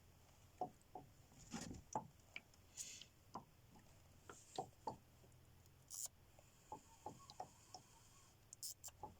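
Faint, irregular clicks and light knocks, a couple of dozen short taps at uneven spacing, over a low steady hum.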